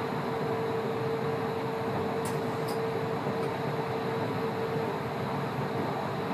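Running noise of a moving train: a steady rumble and hiss with a steady hum throughout. A couple of faint high ticks come a little after two seconds in.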